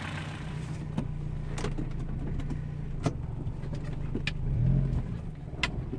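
1977 Honda Civic CVCC's four-cylinder engine running, heard from inside the cabin as a steady low hum that swells briefly about five seconds in. A few sharp clicks sound at irregular intervals over it.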